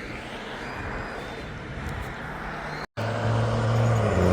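Steady rushing wind and road noise while riding a bike. After a brief cut about three seconds in, a louder steady low engine hum from a nearby motor vehicle comes in and grows louder toward the end.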